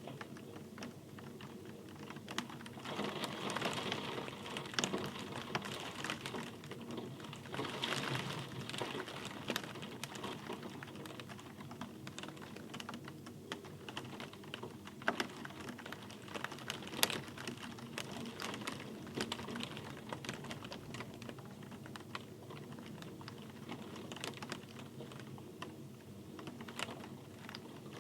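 Rain falling, with many close drops striking a hard surface as sharp, irregular ticks over a steady hiss. It swells a little heavier about three seconds in and again around eight seconds.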